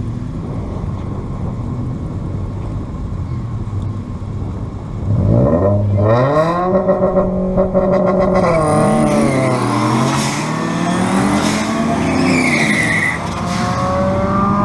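Turbocharged 5.2 L Magnum V8 in a Dodge Ram pickup idling low at the drag-strip start line, then revving sharply about five seconds in and holding high revs for a launch. Its pitch then swings up and down through the rest of the run, with some tyre noise mixed in.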